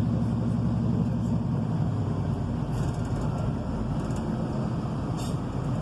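Class 153 railcar's underfloor Cummins diesel engine and running gear heard from inside the carriage, a steady rumble; the engine note eases off about a second and a half in, as the power comes off, with a few faint clicks from the track.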